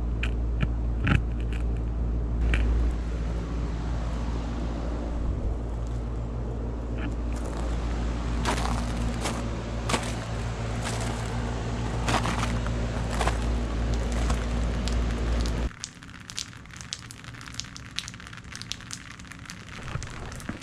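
Irregular crackling and crunching of ice, over a steady low hum that cuts off suddenly about 15 seconds in; the crackling continues after the hum stops.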